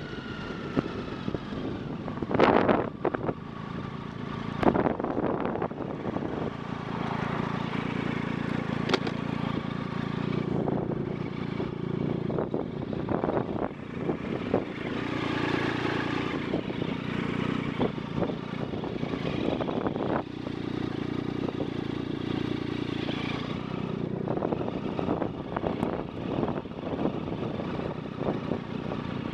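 Steady riding noise from a bike in motion: a continuous hum with frequent short rattles and knocks, loudest in the first few seconds.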